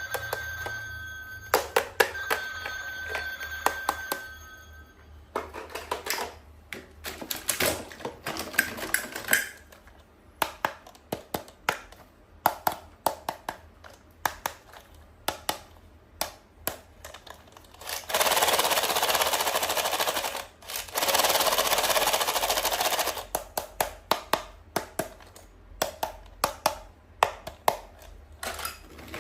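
Toys being handled, with many sharp plastic clicks and taps throughout. In the first few seconds a toy gives a steady electronic tone, and about two-thirds of the way through there are two stretches of hissing noise, each about two seconds long.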